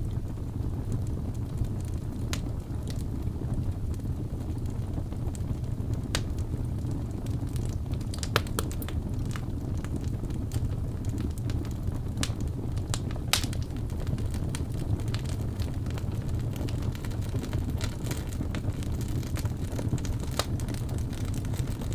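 Wood fire burning: a steady low rumble with sharp crackles and pops scattered through it, a couple standing out louder.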